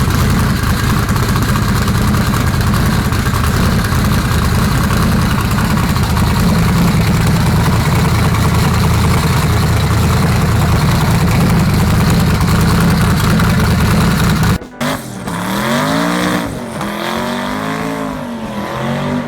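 Drag car engine running loud and steady at high revs with a heavy rushing noise. It cuts off suddenly about three-quarters of the way through and gives way to an engine being revved up and down repeatedly.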